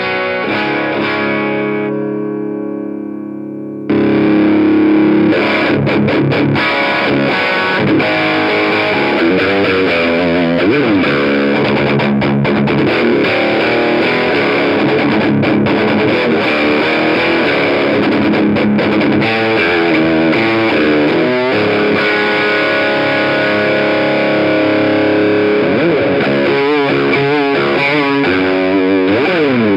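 Electric guitar with distortion: a 1987 Fender Stratocaster Plus with Lace Sensor single-coil pickups, played through a Bogner Ecstasy Red overdrive pedal into an Orange Rocker 30 amp and a Marshall JCM800 2x12 cabinet. A chord rings and fades, then about four seconds in the playing jumps louder into continuous rock riffing, with wavering bent notes near the end.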